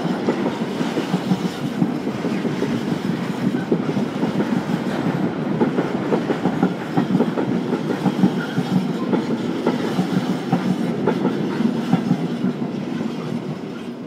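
Freight train's container flat wagons rolling past, wheels rumbling and clicking on the track in a steady clickety-clack. The sound fades near the end as the last wagon goes by.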